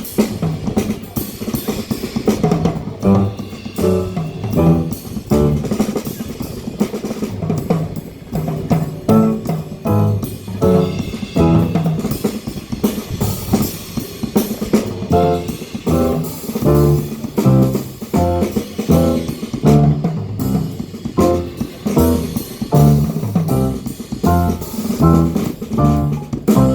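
Live jazz band playing an instrumental tune, with plucked guitar and bass lines over a drum kit keeping a steady beat.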